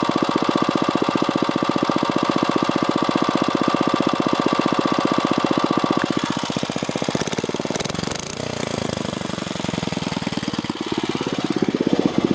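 Small gasoline engine running with a steady, rapid firing beat. About six seconds in, its rhythm falters and turns ragged and a little quieter for several seconds, then it steadies again near the end.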